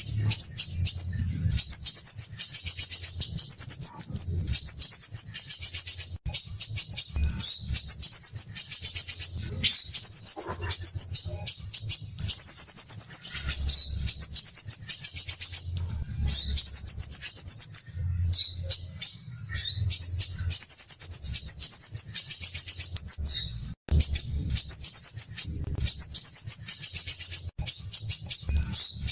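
Crimson sunbird (sepah raja) singing: dense, harsh, rapid high trills in phrases of a second or two, one after another with only brief gaps, over a faint low rumble.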